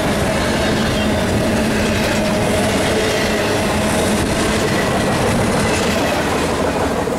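Double-stack intermodal well cars of a freight train rolling past, their steel wheels clattering on the rails in a loud, steady rumble as the end of the train goes by.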